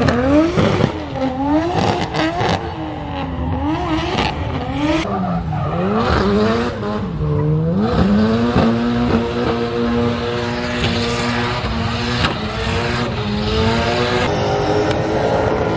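A drift car's engine revving up and down over and over as the car slides, then held at steady high revs for several seconds, with tyre noise underneath.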